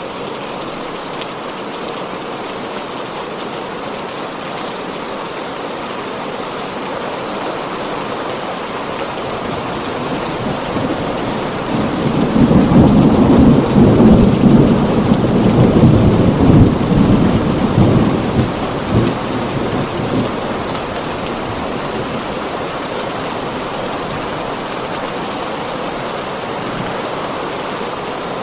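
Heavy rain falling steadily, with a long roll of thunder that builds about a third of the way in, rumbles loudly for several seconds, then dies away.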